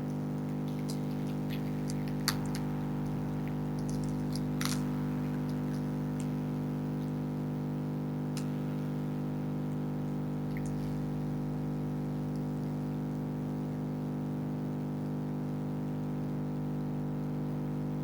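Freezer running with a steady, loud electrical hum, with a few sharp clicks over it, the strongest about two and four and a half seconds in.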